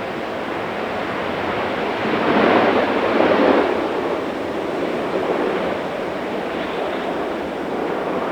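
Steady rushing noise of a landing jet airliner's engines, mixed with strong wind on the microphone, swelling for a moment about two to three and a half seconds in.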